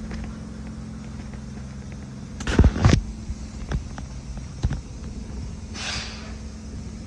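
GMC Yukon XL's 6.2-litre V8 idling steadily. A couple of loud knocks come about two and a half seconds in, and a few lighter clicks follow.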